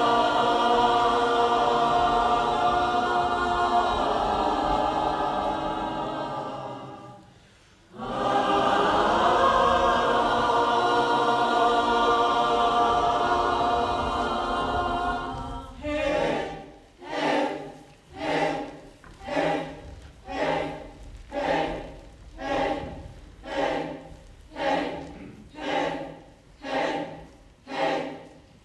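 Choir singing long held chords that fade almost to silence about seven seconds in, then swell again. From about halfway, the choir switches to a rhythmic pattern of short sung pulses, about three every two seconds.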